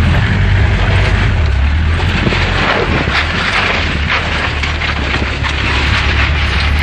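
UAZ-469 off-road vehicle's engine running at low speed as it drives through a shallow river, heard from inside the cab. A steady rushing noise runs over the low engine sound.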